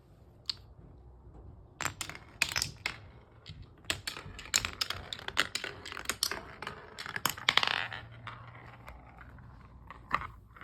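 Marbles clicking and clattering on a Hape wooden marble run, a rapid run of sharp knocks for several seconds that thins out to a few clicks near the end.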